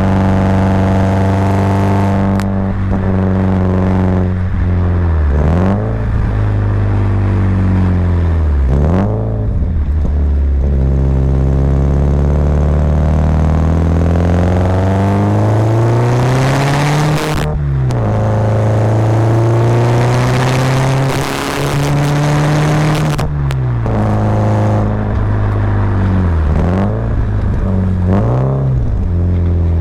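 Subaru Impreza WRX's turbocharged flat-four boxer engine pulling uphill under load. Its revs climb steadily, then drop sharply at gear changes and lifts several times, the longest climb running from about 10 to 17 seconds in.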